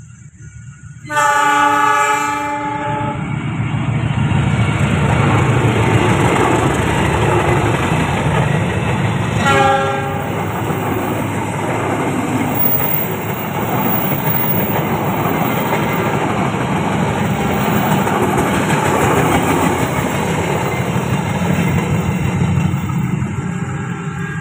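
A diesel-hauled express passenger train runs through the station without stopping. Its locomotive horn sounds a chord for about two seconds, then gives a second short blast about eight seconds later. Steady wheel-on-rail noise from the locomotive and carriages follows, and it fades near the end.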